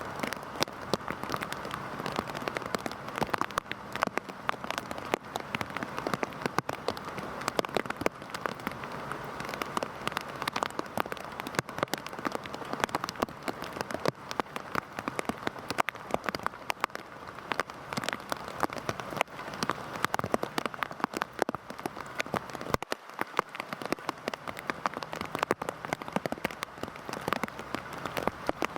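Heavy rain falling steadily, a dense patter of many distinct drops striking a surface.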